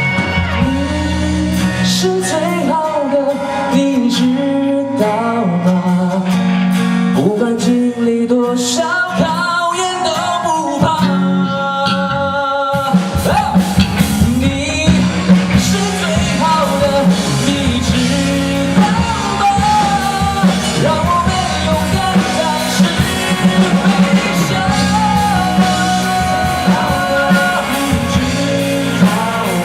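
A live rock band playing a song: electric guitar, bass and drums with singing. The bottom end thins out for the first stretch, and the full band comes back in about 13 seconds in.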